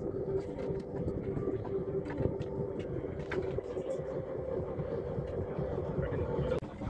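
A vehicle engine running steadily, with a low rumble and a steady hum, and voices faint behind it.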